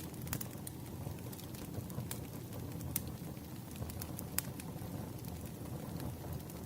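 Wood fire burning: a steady low rumble of flames with irregular sharp crackles and pops of burning logs.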